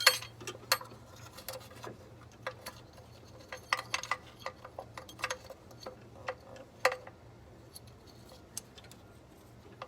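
Irregular sharp metallic clicks and taps of hand tools as a bracket is being fastened down. They come in scattered bunches, with a louder clack near the start and another about seven seconds in. A steady low hum runs underneath.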